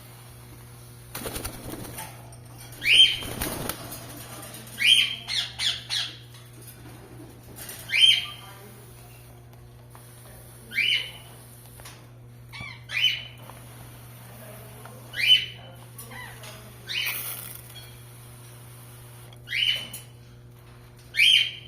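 Indian ringneck parakeets giving short, sharp upward-sweeping calls every two to three seconds, some in quick runs of two or three. A burst of wing flapping in the first few seconds.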